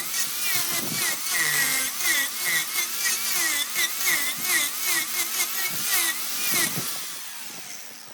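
Wood lathe turning a vase blank while a turning tool cuts into the spinning wood: a squealing tool tone over the hiss of shavings, swooping up and down several times a second, then fading away near the end.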